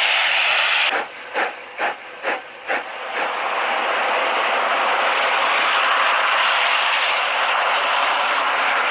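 A train running through snow with a loud, steady rushing hiss. About a second in the hiss drops away for some two seconds, leaving five short pulses about two a second, then it comes back.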